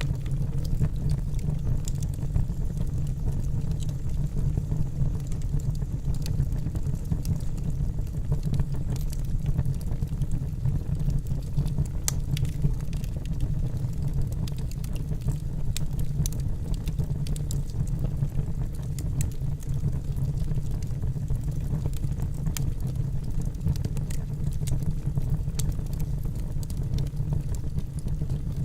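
Wood fire burning in a fireplace: a steady low rumble of flames with scattered crackles and pops from the burning logs.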